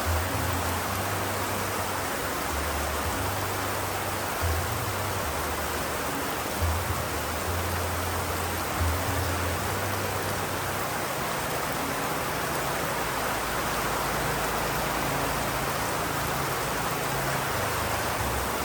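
Steady rain, a dense even hiss, with a low rumble that comes and goes and a few brief soft thuds.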